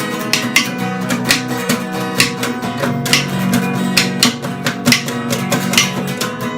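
A live band playing an instrumental passage: strummed guitar over a bass line, with even strokes at about two to three a second.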